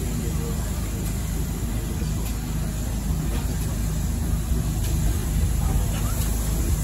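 Heritage passenger train moving slowly along a station platform, heard from inside a carriage at an open window: a steady low rumble that grows slightly louder toward the end.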